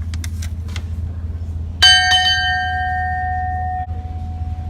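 A metal bell struck sharply twice in quick succession about two seconds in, ringing on and slowly fading, over a steady low hum.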